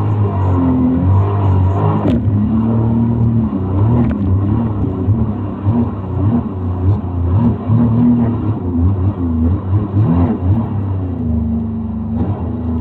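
Motorboat engine running under way, its pitch rising and falling as the revs change.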